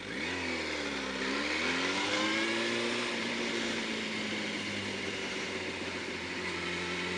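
Yamaha R1 sportbike's inline-four engine accelerating. Its pitch climbs, dips about a second in as a gear is changed, climbs again, then settles to a steady cruise, with wind rushing over the microphone throughout.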